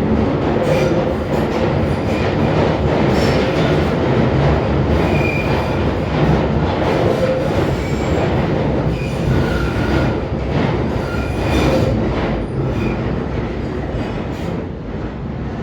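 London Underground Northern line tube train running through the tunnel on the Kennington Loop, heard from inside the carriage: loud, steady wheel and running noise with scattered clicks and several brief high-pitched squeals of the wheels on the curve. The noise eases a little near the end.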